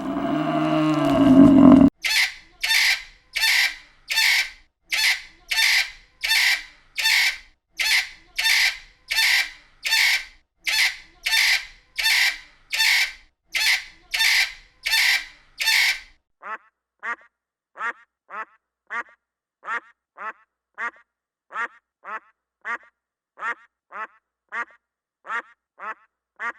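Animal calls: a low pitched call at the start, then a long, evenly paced run of harsh calls, then shorter calls falling in pitch, about two a second.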